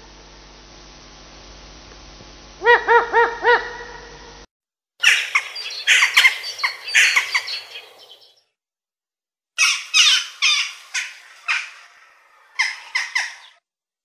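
Bird calls from two recordings: first a quick run of four short pitched notes. After a cut, a different bird gives harsh, scratchy calls in two bouts separated by a pause of about a second.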